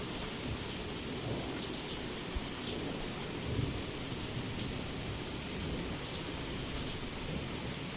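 Heavy rain pouring steadily against a window, with a low thunder rumble underneath. Two sharp drop taps stand out, about two seconds in and near the end.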